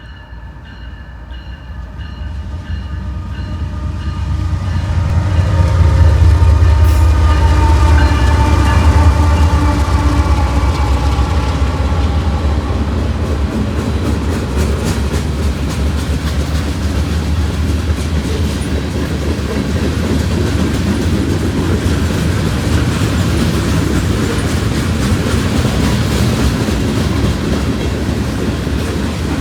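Diesel freight locomotives approaching and passing, their engine note dropping in pitch as they go by, followed by freight cars rolling past with a steady rumble and wheel clatter over the rail joints.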